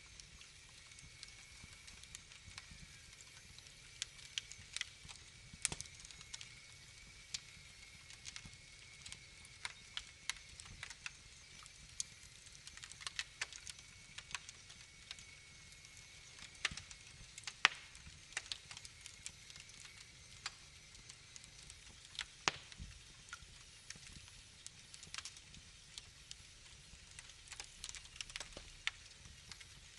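Wood fire in a fireplace crackling: a low steady hiss with sharp pops and snaps at irregular intervals.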